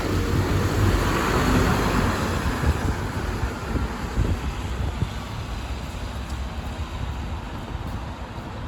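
City bus driving past, its engine and tyre rumble loudest in the first few seconds and then fading away.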